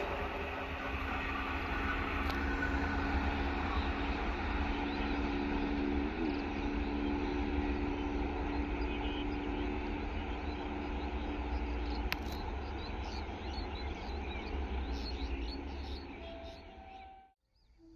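Indian Railways electric train rumbling away into the distance after passing, with a steady low hum running under it. The rumble cuts off suddenly near the end.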